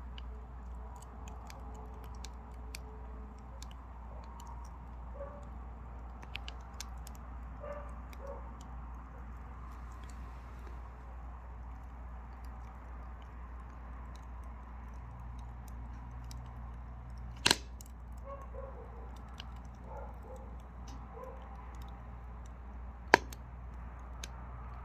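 Mini pine firewood burning in a Carrix Vulcan 26 wood stove, with faint scattered crackling and two sharp loud pops, one about two-thirds of the way in and one near the end. A steady low hum runs underneath.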